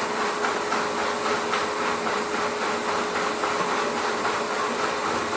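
Power tool running steadily: a rapid hammering rattle over a hiss with a constant hum, typical of a rotary hammer drill.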